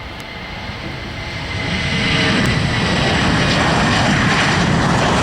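Jet airliner engines passing close: a steady high whine over a rush of noise, swelling louder over the first two seconds and then holding loud.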